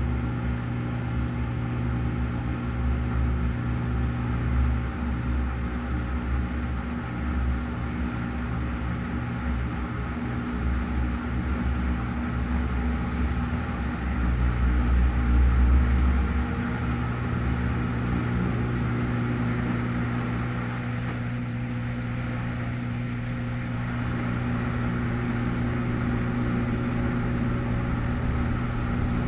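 Washing machine running: a steady motor hum over a pulsing low rumble that swells about halfway through and then eases off.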